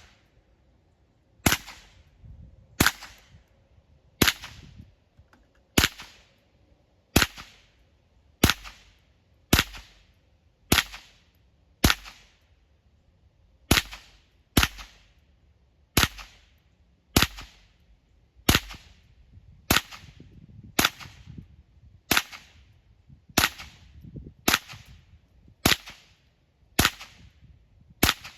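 Ruger 10/22 .22 rifle firing a long string of about three dozen shots, each a sharp crack about a second or less after the last, with one short pause near the middle.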